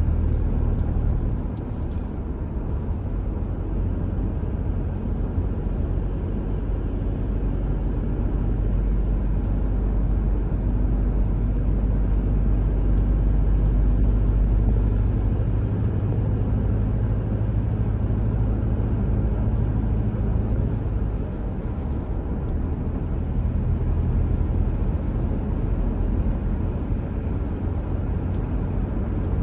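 Car driving steadily along a road: a low engine drone and road rumble, the drone shifting pitch slightly a few times.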